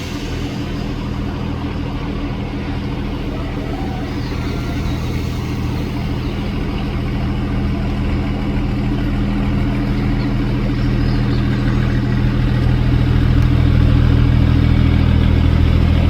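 Boat engine running steadily with a low drone, growing gradually louder.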